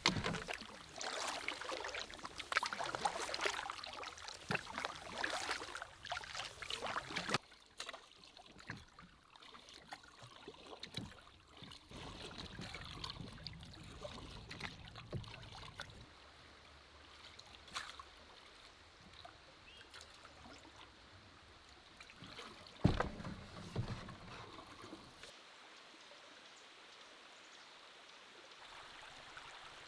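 Water splashing and trickling around a canoe, busiest for the first several seconds, then quieter, with a few scattered knocks, the loudest near the end.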